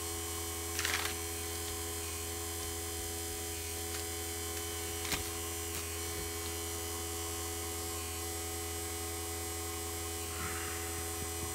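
Vacuum pump motor running with a steady hum, its valve to the system closed. A brief click about five seconds in.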